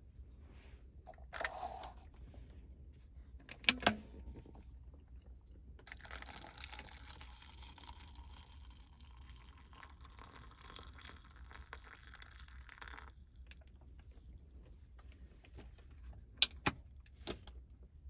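Small handling sounds of meal preparation: a few sharp clicks and knocks of utensils or containers, with a steady hiss lasting about seven seconds in the middle.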